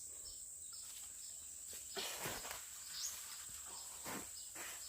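Steady high-pitched insect drone with short chirps repeating two or three times a second, broken by a few brief rustling, scraping noises about two, three and four seconds in.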